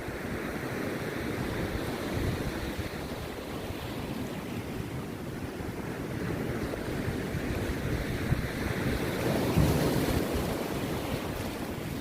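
Rough sea surf breaking on a beach: a continuous wash of waves that swells louder about nine to ten seconds in as a wave crashes, with wind buffeting the microphone.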